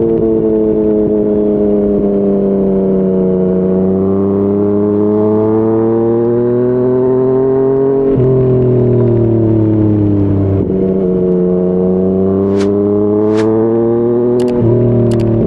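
2020 Yamaha MT-09's three-cylinder engine through a Yoshimura R55 slip-on exhaust, under way and pulling up through the revs. The pitch steps down about eight seconds in as it shifts up a gear, then sags and climbs again, with another shift near the end. A couple of sharp clicks come shortly before the second shift.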